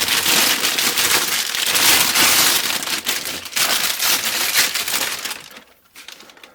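Packaging being handled and crumpled, a dense crinkling and crackling that dies away near the end.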